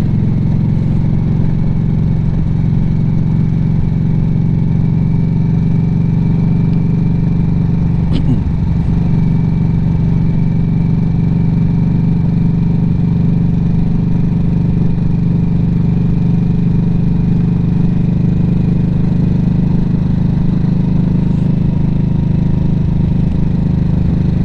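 Harley-Davidson motorcycle engine running steadily, its low note holding even with no revving.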